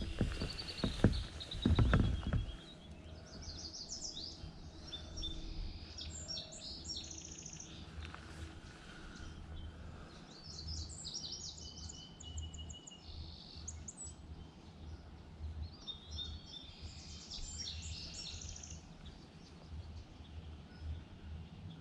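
Songbirds singing in repeated high, trilled phrases, over a steady low rumble. A few loud knocks and splashes come in the first two seconds.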